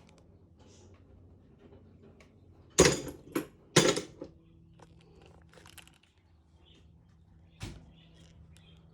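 A few sharp clunks from garage door opener hardware being handled: three close together about three seconds in and one more near the end, over a faint steady hum.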